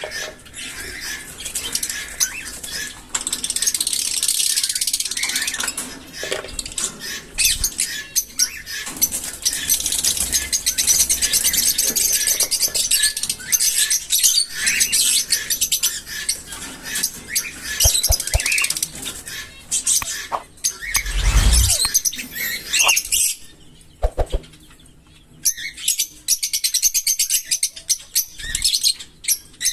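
A group of small pet parrots chattering continuously in rapid high-pitched twitters and ticks. There is a low thump about 21 seconds in and a short lull a little after, then the chatter resumes.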